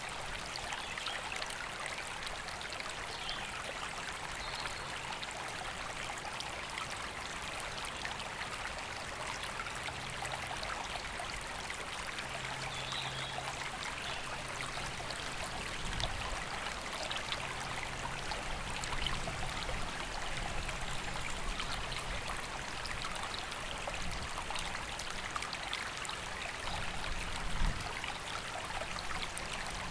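River water rushing and splashing steadily over stones. A couple of faint, short bird chirps come through early on, and there are brief low thumps about halfway through and near the end.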